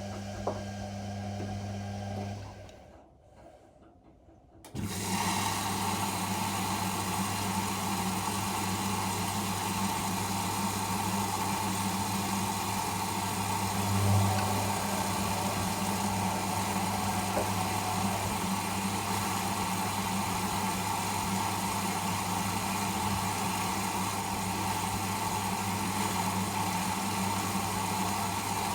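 Whirlpool Indiana 1400 washing machine running mid-wash with a steady motor hum. It stops about two seconds in, goes nearly quiet for about two seconds, then starts again abruptly and runs steadily.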